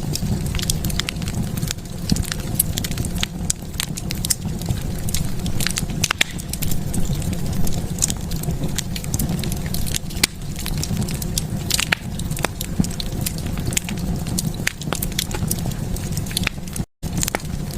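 Wood fire in a fireplace crackling, with many irregular sharp pops over a steady low rumble. The sound cuts out completely for a split second near the end.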